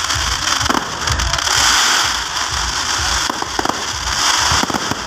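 Aerial fireworks display: a dense crackling hiss of shells bursting, with several sharp bangs and a low rumble underneath.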